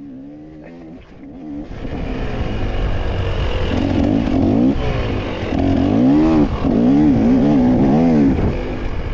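Off-road motorcycle engine under the rider's throttle, opening up about a second and a half in. It then revs up and down repeatedly as the bike accelerates and backs off through the course.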